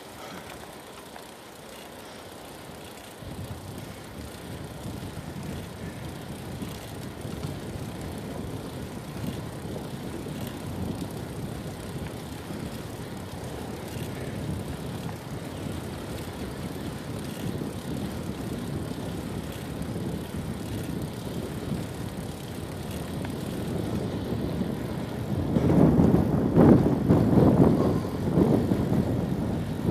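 Riding noise from a moving bicycle with wind rumbling on the microphone, rising about three seconds in and growing louder and gustier near the end.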